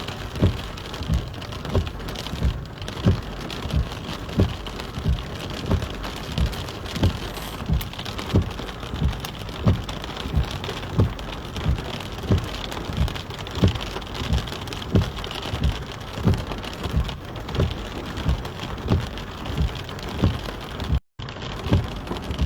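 Thunderstorm rain falling steadily, with a regular low thump about one and a half times a second running through it. The sound cuts out for a split second near the end.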